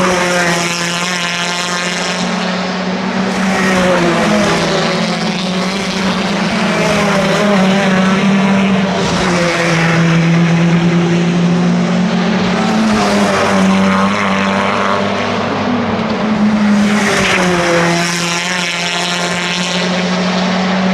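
Several racing cars passing one after another, each engine note falling in pitch as it goes by.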